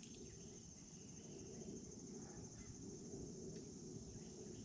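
Faint steady chorus of insects, a continuous high-pitched buzz, over a faint low rumble.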